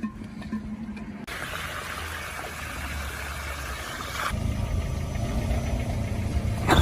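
A motor vehicle's engine running steadily at low revs. The sound changes suddenly about one second in and again about four seconds in.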